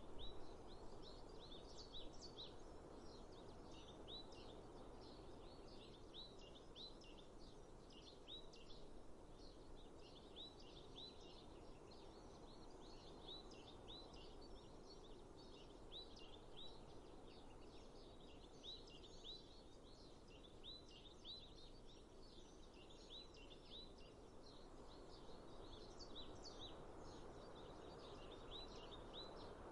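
Birds chirping: short, high, hooked notes come in quick clusters again and again, over a soft, steady background hiss.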